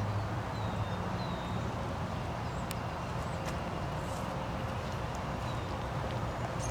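Steady outdoor ambient rumble, with a few faint short high chirps and two light clicks near the middle.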